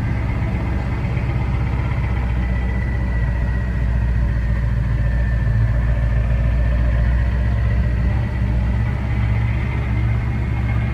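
A vehicle's engine running steadily with an even, low hum and no revving.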